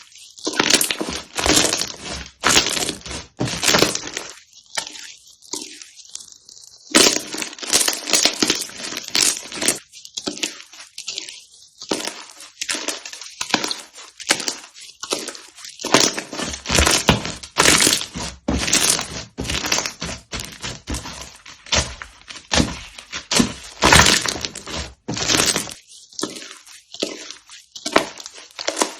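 Slime being pressed and squeezed by hand close to the microphone, giving dense, irregular crackling. It eases off briefly about five seconds in, then picks up again.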